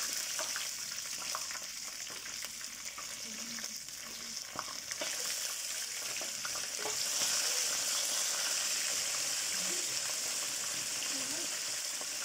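Sliced onions frying in hot oil in a karahi, sizzling steadily, with a spatula clicking and scraping through them. The sizzle grows louder about seven seconds in.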